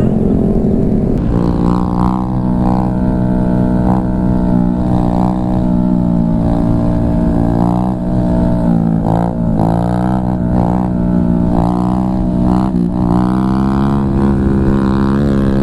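Honda Grom's small single-cylinder engine running under steady throttle at cruising speed, with its note dipping briefly a few times in the middle as the throttle eases, over wind rumble on the microphone.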